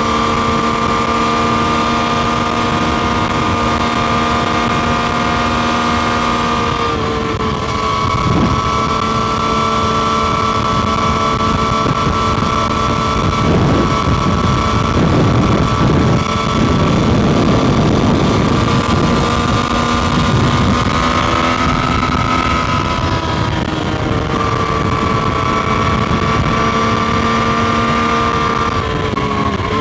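Triumph Street Triple RS 765 cc inline-three engine running at fairly steady revs while riding, with a step in pitch about seven seconds in and the pitch falling near the end as it slows.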